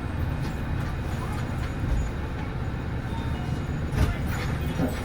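Nissan Diesel PKG-RA274MAN bus's diesel engine running steadily as the bus drives, a continuous low rumble. A short thump or rattle comes about four seconds in.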